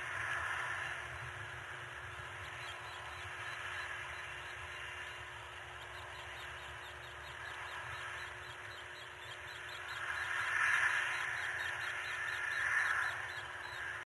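Harsh, cawing bird calls from outdoors, swelling loudest twice near the end.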